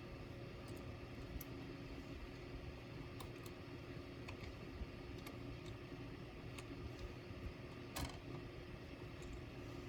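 Faint scattered small clicks and taps of parts being handled, the loudest about eight seconds in, over a steady low hum.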